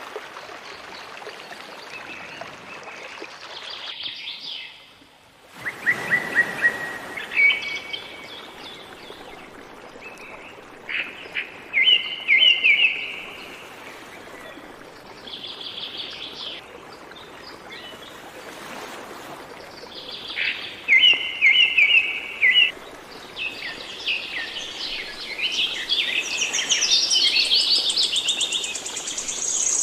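Several songbirds chirping and singing in short, repeated phrases over a steady faint background hiss, with a brief drop-out about five seconds in and busier calling near the end.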